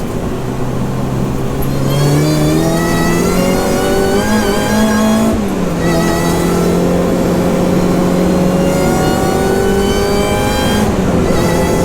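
Mini race car engine heard inside the cabin under hard acceleration on track, loud. The pitch climbs, drops sharply about five seconds in as it changes up a gear, then climbs again, with another drop near the end.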